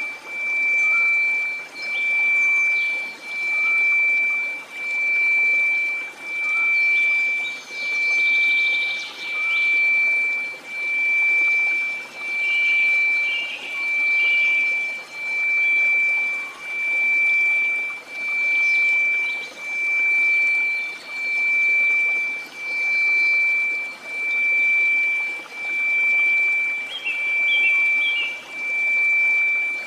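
A steady 2334 Hz pure sine tone over faint white noise, swelling and fading in loudness about every 1.3 seconds. A few faint high chirps come and go in the background.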